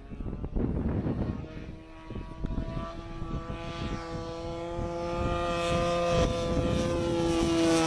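Radio-controlled P-47 model plane's Evo 35cc single-cylinder two-stroke gas engine running at a steady high pitch as it approaches, growing louder over the last few seconds. Wind rumbles on the microphone for the first second or so.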